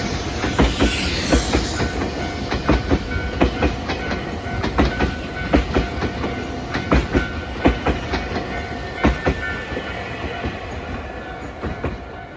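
Nankai electric train running past over the level crossing, its wheels clacking over the rail joints with a steady rumble. The clacks thin out and the sound fades near the end as the train moves away.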